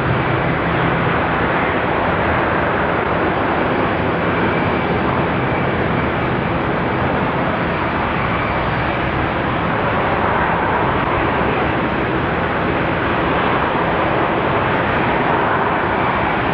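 Four-engined Airbus A340-300 jet airliner's engines running, a loud steady rush of jet noise with faint low hums underneath.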